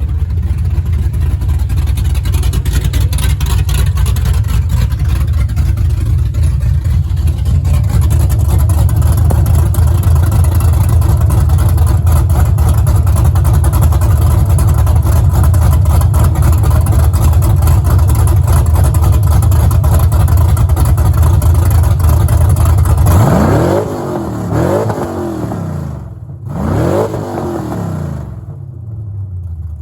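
Chevy Silverado's 6.0 L LS2 V8 with a BTR stage 4 cam idling with a choppy cammed lope, then blipped twice near the end, the pitch rising and falling with each rev before it settles back to idle.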